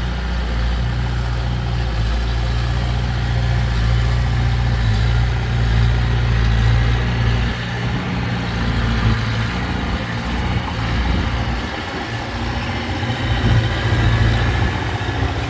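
Diesel engine of heavy earthmoving equipment running steadily, its low note changing about halfway through as the load or revs shift.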